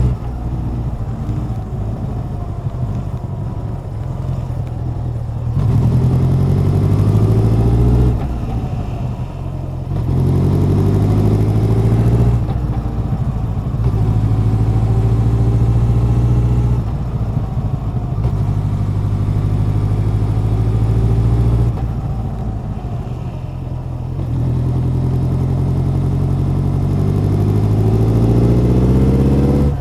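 Honda CB1100's air-cooled inline-four exhaust while the motorcycle is ridden. The engine note climbs in pitch under throttle, then drops away or steps down, about eight times over the stretch.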